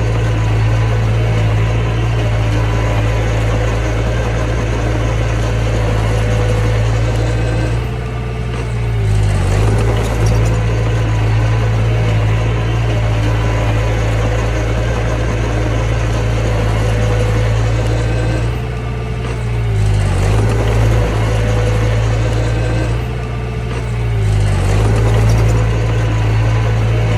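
Mini bulldozer's diesel engine running steadily, its pitch and loudness sagging briefly three times and then coming back up.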